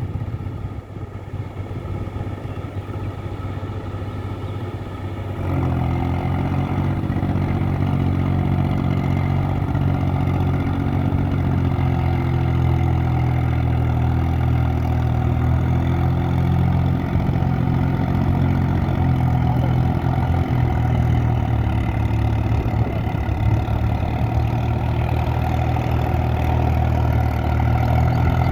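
Swaraj tractor's diesel engine running, stepping up in loudness about five seconds in and then holding a steady note.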